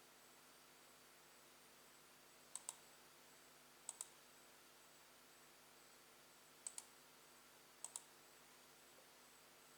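Four double clicks of a computer mouse button, each pair sharp and quick, a second or more apart, over near silence.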